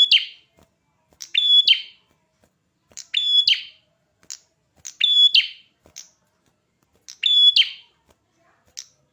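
A small songbird, the red-headed perjak, singing in full song: about five short, loud phrases, roughly one every two seconds, each a clear high note run into quick stacked notes, with single sharp chips between the phrases.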